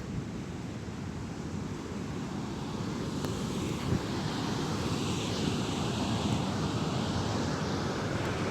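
Steady rush of fast-flowing water, with wind buffeting the microphone.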